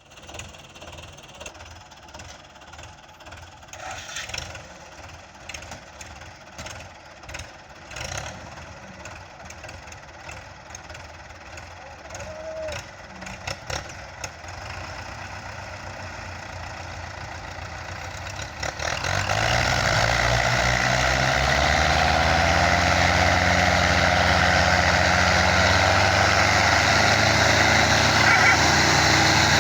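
Belarus 510 tractor's diesel engine. Scattered clicks and knocks come first, then about two-thirds of the way through the engine starts and settles into a steady, loud run.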